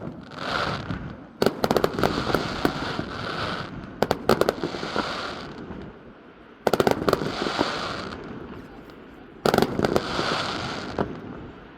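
New Year's Eve fireworks display: four shells bursting about every three seconds. Each sharp bang is followed by a second or two of crackling hiss.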